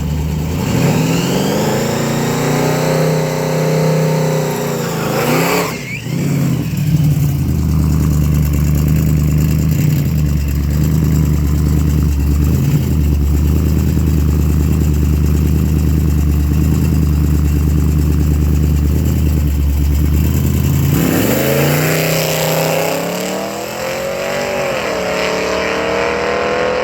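Supercharged engine of an old-school race truck under power: the revs climb and dip in the first few seconds, then hold at a steady loud drone for about fourteen seconds before climbing again with a brief dip, as if shifting gears.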